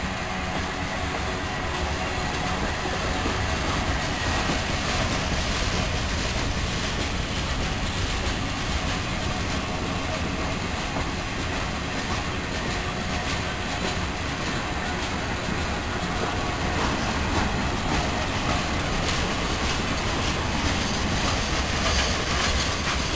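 Freight cars of a mixed freight train rolling past, their steel wheels running on the rails in a steady rumble with repeated clicks.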